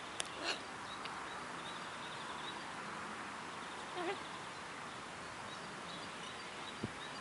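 Steady outdoor background hiss, with a sharp click near the start and a faint short wavering call about four seconds in.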